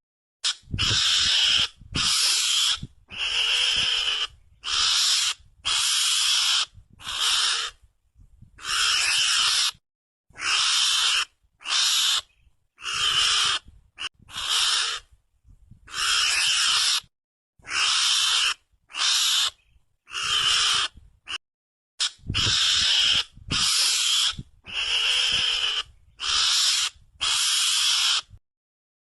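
Recorded call of a Javanese mongoose (garangan), played as a hunting lure: a harsh, hissing call repeated about once a second, each call half a second to a second long, with silent gaps between.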